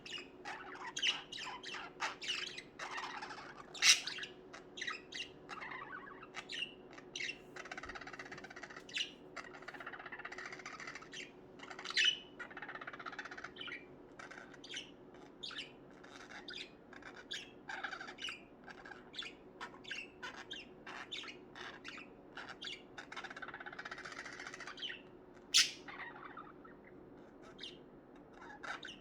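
Budgerigars chirping and chattering, a flock's warbling chatter broken by many short sharp squawks and chirps, with a loud squawk about four seconds in and another near twenty-six seconds.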